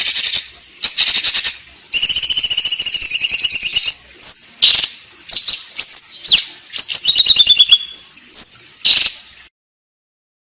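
Sparrows (burung gereja) giving harsh, rapid chattering fighting calls: fast trains of sharp chirps, with a long unbroken run about two seconds in. The calls stop abruptly about a second before the end.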